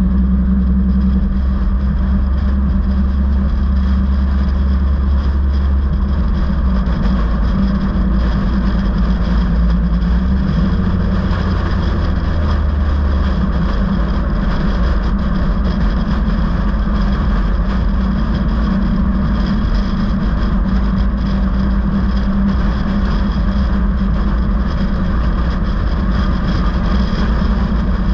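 Steady vehicle engine and road noise, with a continuous low engine hum that shifts a little partway through.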